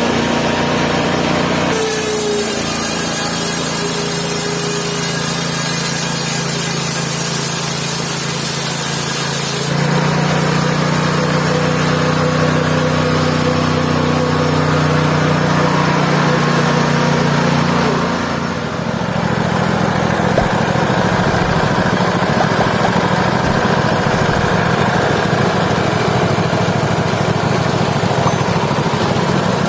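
Mobile band sawmill running: its engine drones steadily, with a loud high hiss for about eight seconds near the start. A little past halfway the level dips briefly and the engine note changes.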